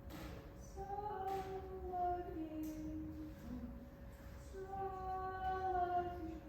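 A woman's voice singing two long, drawn-out phrases of held notes that step slowly downward, with a faint steady hum underneath.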